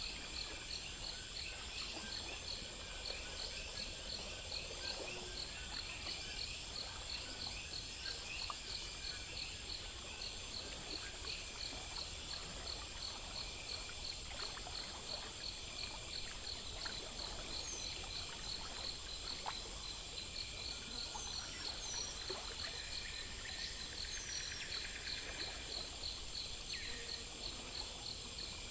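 Night insect chorus: crickets chirping in a steady rhythm, a few chirps a second, over a continuous high, even insect trill. A few brief higher chirps come in the second half.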